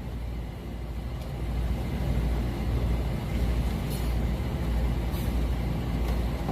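Outdoor street background noise: a steady low rumble with no music or voices, as the guitar falls silent.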